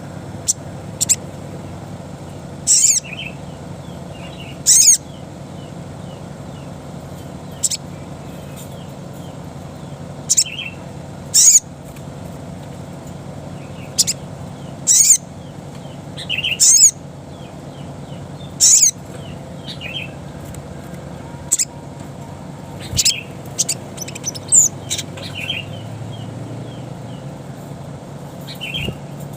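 A little spiderhunter (sogon) calling in the wild 'ngalas' style: sharp, very high calls, single or in pairs, every one to three seconds, with softer chirps between them. A steady low hum runs under the calls.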